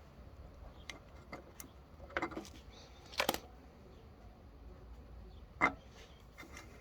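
Scattered light clicks and knocks of tools and small parts being handled during hand work on the mower, with a sharp knock, the loudest, a little before the end.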